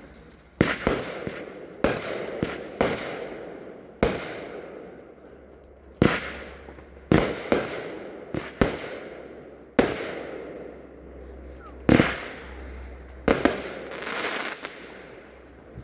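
Consumer fireworks cake firing: a string of sharp bangs at irregular intervals of about half a second to two seconds, each trailing off with echo.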